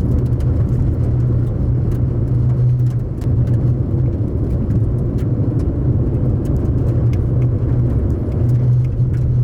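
A car driving: steady engine and road noise with a low hum, and scattered small sharp ticks throughout.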